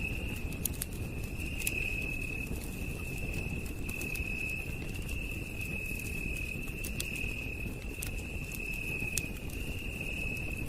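Campfire crackling, with sharp pops scattered irregularly over a low steady rumble, under a continuous high-pitched trill of night insects.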